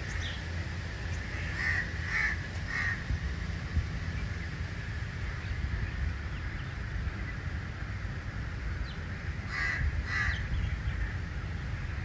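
Bird calls: three short calls about two seconds in and two more about ten seconds in, over a steady low rumble.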